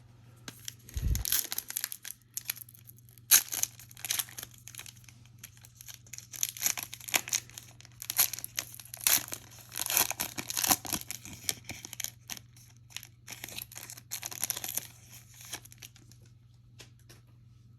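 Trading card pack wrapper being torn open and crinkled, a long run of irregular tearing and rustling, with a dull thump about a second in.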